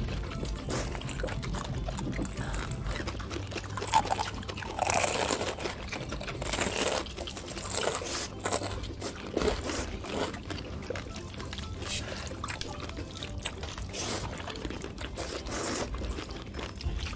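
Close-up eating sounds: wet mouth noises and slurping, broken by many small clicks and crunches.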